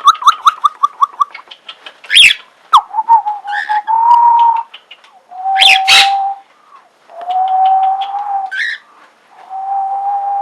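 Pet birds calling: a quick run of falling chirps at the start, a few short, sharp squawks, and several long, steady whistled notes.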